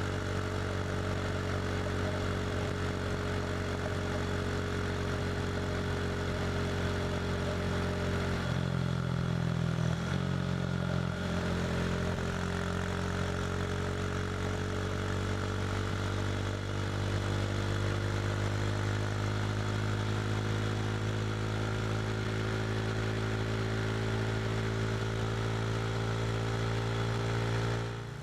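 KTM RC 390's single-cylinder engine running at steady road speed through an SC Project slip-on exhaust. The note wavers briefly about a third of the way in, then climbs slowly in pitch as the bike picks up speed.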